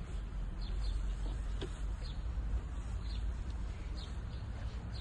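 Small birds chirping, short high calls that fall in pitch, about one a second, over a steady low rumble.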